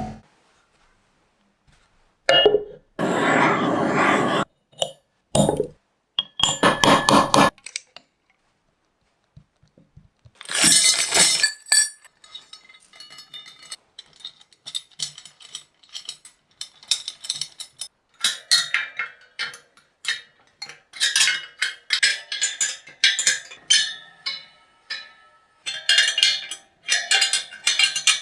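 Several short bursts of noise in the first third, then a quick run of small hard parts clinking and tapping against each other.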